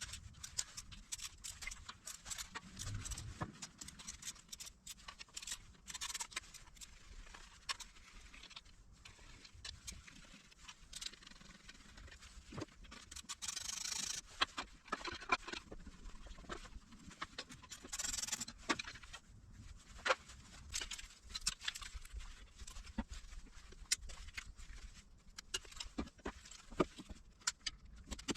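Irregular clicks, clinks and scrapes of hand tools on metal engine parts during an engine teardown, with a couple of longer scraping bursts in the middle.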